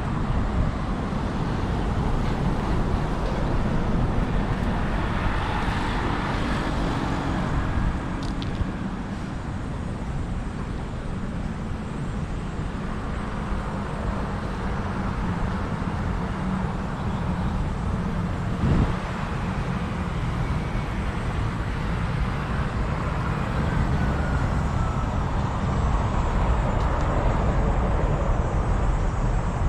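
Urban road traffic: a continuous low rumble, with vehicles swelling past a few seconds in and again near the end, one with a slowly falling pitch. There is a single short knock about two-thirds of the way through.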